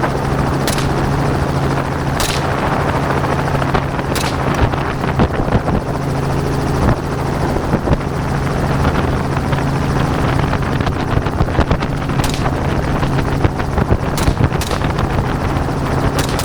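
Helicopter running steadily, its engine and rotor making a constant drone, with about six sharp gunshot cracks spread through it, two of them close together near the end.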